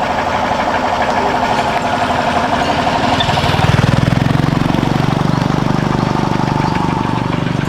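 A small engine running with a steady, rapid chugging, which gets louder and deeper about three and a half seconds in.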